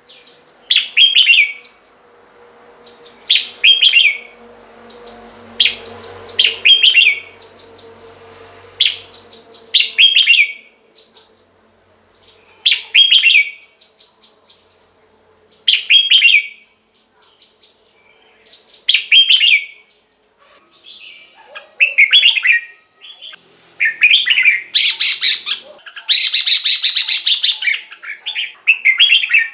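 Red-whiskered bulbul singing: short, loud warbled phrases repeated about every three seconds, then faster, denser calling over the last third, with a long harsh burst near the end.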